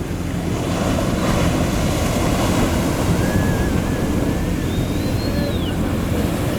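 Ocean surf, a steady wash of waves with wind on the microphone, swelling about a second in. A low steady hum runs underneath, and a thin wavering whistle rises and falls past the middle.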